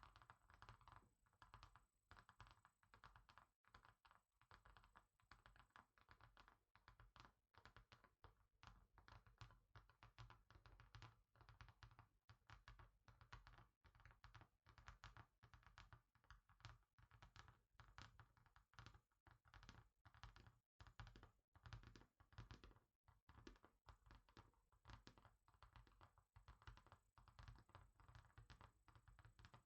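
Quiet, rapid fingernail and fingertip tapping on a hard surface, many light taps a second in an uneven, keyboard-like patter.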